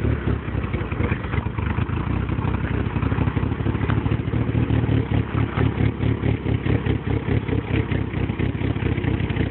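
Exhaust of a turbocharged DSM four-cylinder with a built motor and freshly done exhaust work, running at low, steady revs with a choppy, pulsing note.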